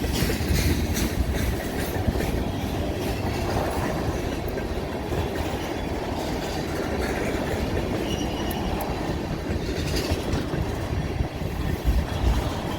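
BNSF freight train cars rolling past at the crossover: a steady rumble with wheels clicking over rail joints and switch work, and a faint high wheel squeal now and then.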